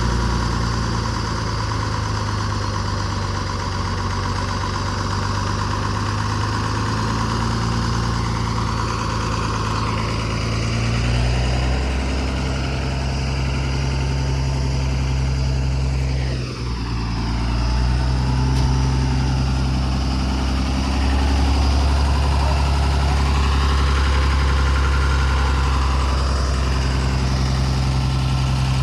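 Tata truck's diesel engine running steadily, its pitch shifting about eleven seconds in and again about twenty-one seconds in, with a brief dip in level around sixteen seconds.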